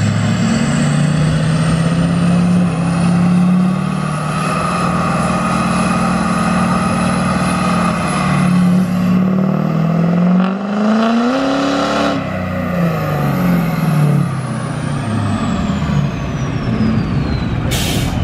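Turbocharged diesel pickup truck making a pull on a chassis dyno. The engine runs steady under load, revs up about ten seconds in and lets off near twelve seconds, with the revs falling in steps while a high turbo whistle winds down.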